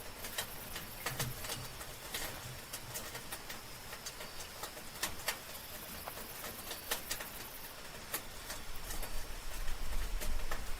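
Soft rain falling steadily, with irregular sharp drops and drips ticking over the hiss. A low rumble swells in near the end.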